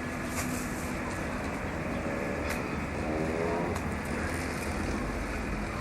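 Steady urban street traffic noise, a rumble of passing cars.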